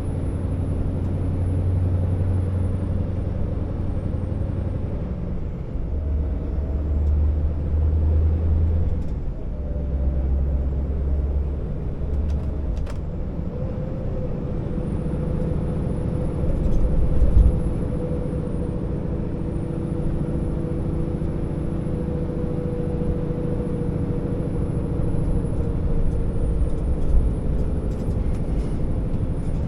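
Scania R650 V8 diesel of a loaded timber truck running under load, its low drone changing step several times in the first half. There is one louder knock a little past halfway.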